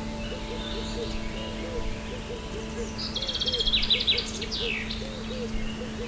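Forest ambience with birdsong: a songbird sings one loud, quick trilling phrase about halfway through, over faint chirps, a steady low drone and a run of soft, repeated low notes.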